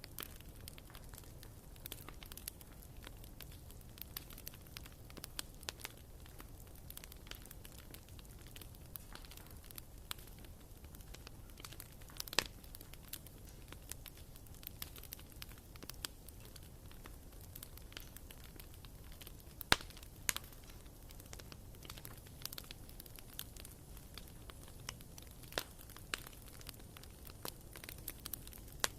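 Wood fire in a fireplace crackling, with a steady stream of small pops and a few louder snaps.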